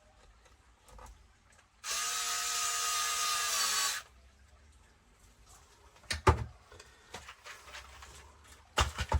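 Cordless power driver whirring steadily for about two seconds, its pitch dipping slightly as it stops. Two sharp knocks follow, one about six seconds in and one near the end.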